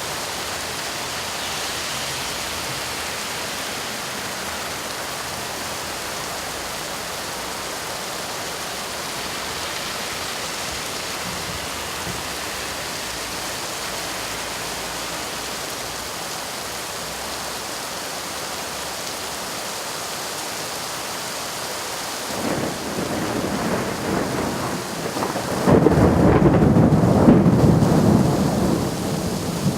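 Steady rain falling, then near the end a roll of thunder builds, rumbles loudest for a couple of seconds and begins to die away.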